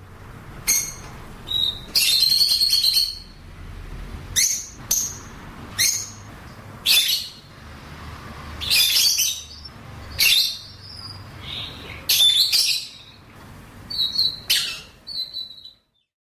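Lovebirds calling: a string of short, high-pitched chirps and squawks at irregular intervals, a few of them drawn out longer, that stops shortly before the end.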